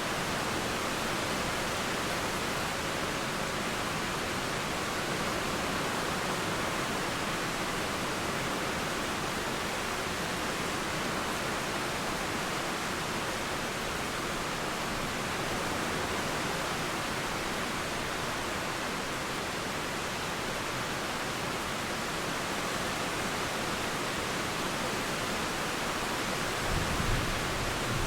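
Steady rain with running river water, an even hiss. A brief low rumble near the end.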